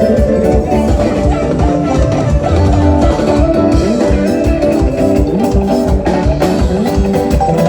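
Upbeat band music with guitars, bass and a steady drum beat.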